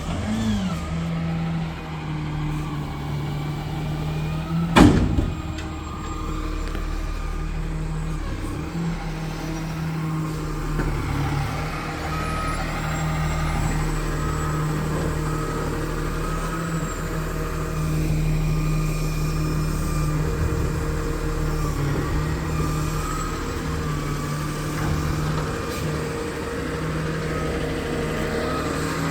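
Garbage truck engine running steadily, with one sharp bang about five seconds in and a reversing beeper sounding through the second half.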